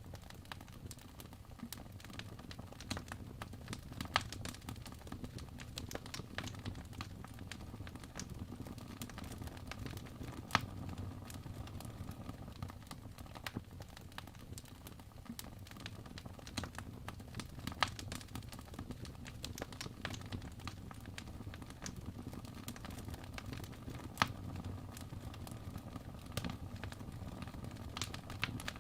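Wood fire burning in a fireplace: a steady low rumble of flames with constant crackling of the burning logs and occasional louder pops.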